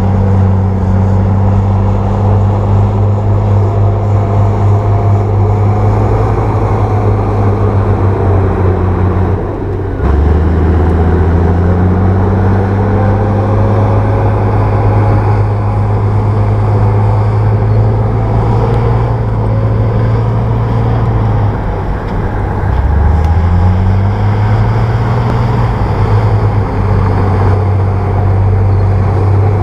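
Bulldozer's diesel engine running steadily. Its pitch dips sharply and climbs back twice, once about ten seconds in and again a little past twenty seconds.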